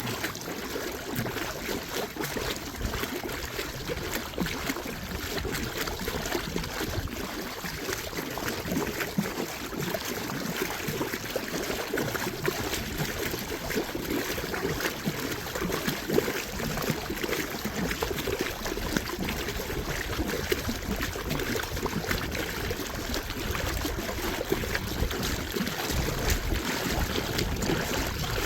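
Water trickling and lapping steadily against the hull of a small paddled boat under way, with many small irregular splashes.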